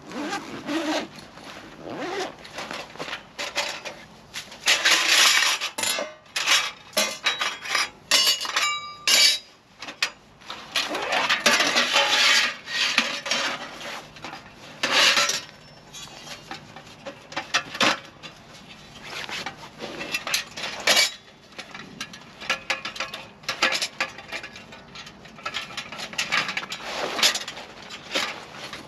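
Objects being handled, with irregular clatters, knocks and clinks in clusters, and a brief ringing clink about nine seconds in.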